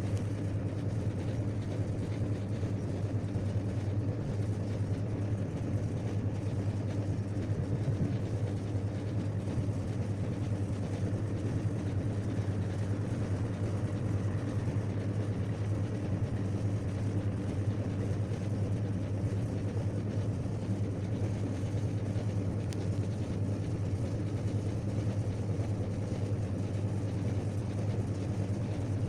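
An engine running steadily at constant speed, a low even hum that does not change.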